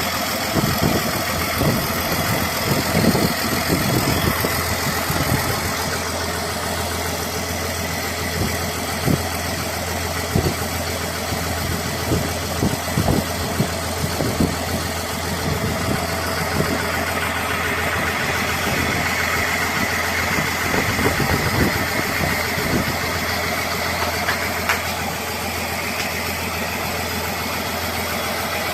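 Diesel engine idling steadily, with irregular sharp knocks or clanks over it through much of the time, dying away in the last few seconds.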